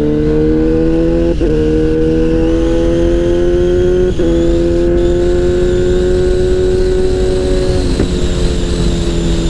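Kawasaki Z800 inline-four engine under way on the road, breathing through an aftermarket IXRace exhaust with the dB killer removed. The note climbs slowly under steady throttle and breaks off briefly three times, with wind rushing underneath.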